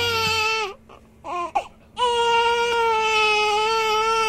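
Newborn baby crying: a long wail that falls off about three-quarters of a second in, a short broken sob, then a second long wail from about two seconds in that drops away near the end.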